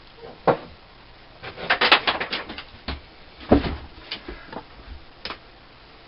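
Sharp metal clicks and knocks from small steel parts and hand tools being handled at a workbench, with a quick rattle of clicks about two seconds in and a heavier knock a little after three and a half seconds.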